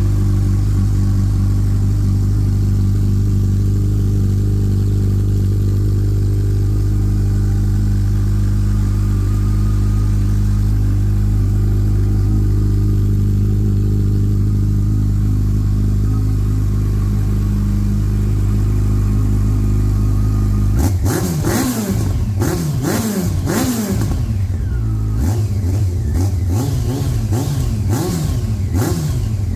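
A 2009 Yamaha FJR1300's inline-four engine idles steadily through a 14-inch carbon Delkevic exhaust. About two-thirds of the way in, it is revved in a series of quick blips, each rising and falling, before settling back to idle near the end.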